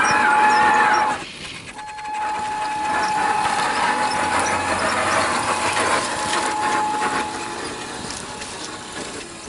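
1/6-scale RC Willys Jeep driving over rough ground: its motor and gears give a steady whine over a rough hiss, with a second tone rising and falling at the start. The sound drops away briefly about a second in, then the whine holds steady before fading near the end.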